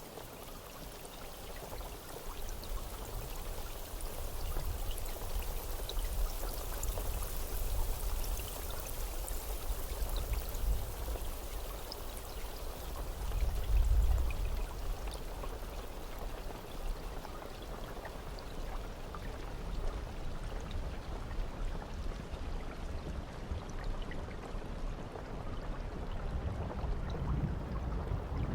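Steady rain falling: an even hiss with scattered drop ticks, over a low rumble that swells about halfway through.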